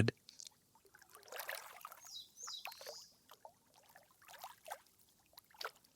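Faint water ambience: scattered dripping and trickling. Two short high chirps come about two seconds in.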